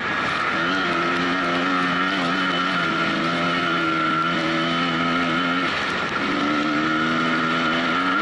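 Dirt bike engine running under throttle while riding. The engine note climbs about half a second in, holds, drops away briefly near six seconds in, then climbs again.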